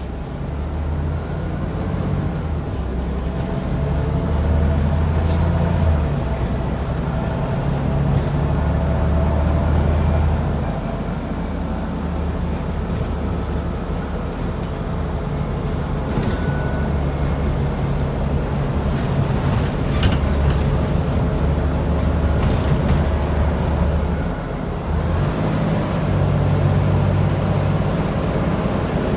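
Scania N94UD double-decker bus's DC09 five-cylinder diesel engine working hard under way. Its low drone swells and eases every few seconds as the bus pulls through the gears. A faint high whistle rises near the end.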